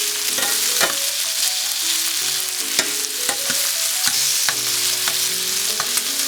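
Chicken breast fillets frying in olive oil and butter in a hot skillet: a steady sizzle with scattered sharp pops.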